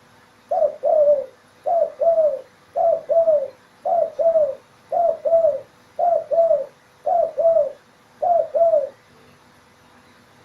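Spotted dove (tekukur) cooing: eight two-note coos about a second apart, the second note of each falling in pitch, stopping about a second before the end.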